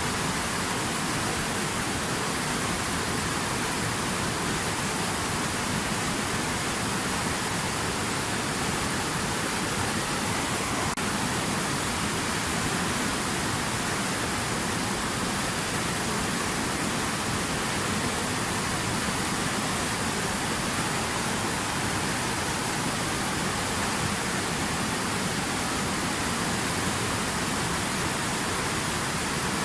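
Water running steadily over calm river rapids, an even rushing noise with no breaks.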